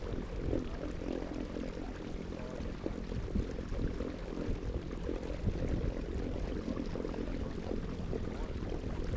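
Water sloshing and trickling around a kayak, a steady low rumbling wash.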